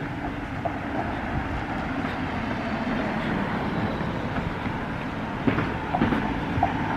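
Steady road traffic noise of cars passing, with a few short knocks near the end.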